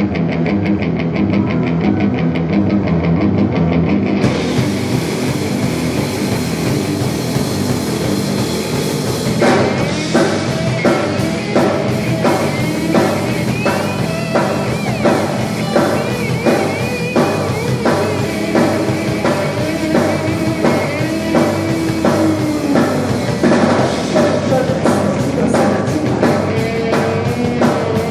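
Live punk rock band playing at a soundcheck. A guitar-and-bass riff opens, cymbals and drums come in about four seconds in, and from about ten seconds in the full band plays a fast, steady beat.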